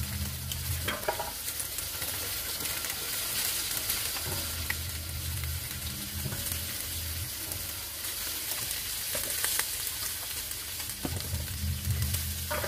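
Small whole fish and sliced ginger sizzling steadily in a hot stainless-steel wok, with a low hum that comes and goes every few seconds.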